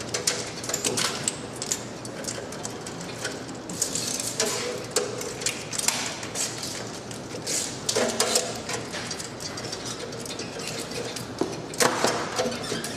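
Hand tools at work on an engine being assembled: irregular clicks and metallic clinks of wrenches and ratchets on bolts and engine parts.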